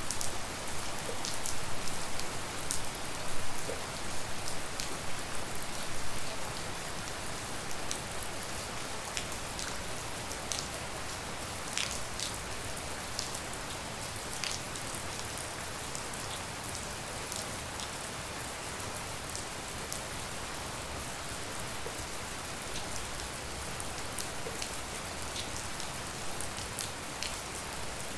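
Steady rain falling, with single drops ticking sharply close by. It is heavier and more uneven for the first few seconds, then settles to an even patter.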